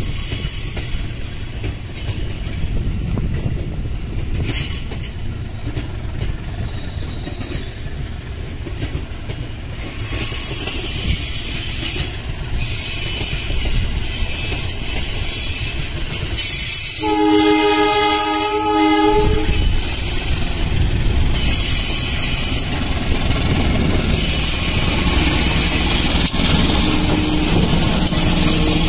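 Approaching CC 201 diesel-electric locomotive hauling a passenger train: steady rail rumble, one horn blast about two seconds long a little past halfway, then the train growing louder with the diesel engine running as it passes close.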